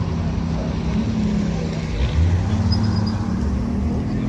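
Car engine running at idle, a steady low engine note that swells louder about two seconds in.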